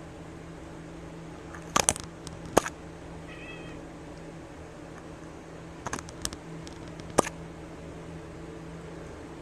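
A cat gives one short, high meow amid several sharp taps and knocks, over a steady low background hum.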